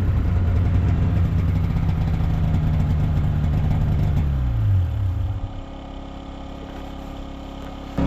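An engine running steadily, then slowing with a falling pitch and shutting off about five seconds in, leaving a quieter low rumble.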